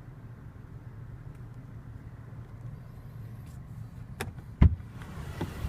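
A steady low hum inside the car cabin, then about four seconds in a sharp click and a heavy thud as the door latch releases and the door is pushed open, letting in outside noise.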